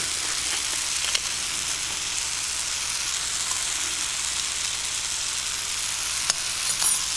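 Tomato and spice mixture sizzling steadily in a frying pan, with a few sharp clicks about a second in and near the end.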